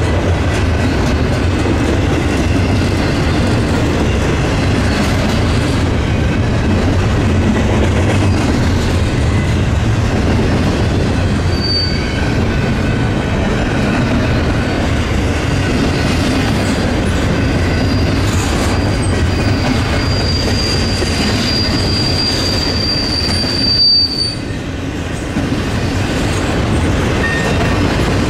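Double-stack intermodal freight train rolling past close by: a steady rumble and rattle of the well cars' steel wheels on the rails. A thin, high wheel squeal comes in about halfway, rises slightly and cuts off suddenly, after which the rumble briefly drops.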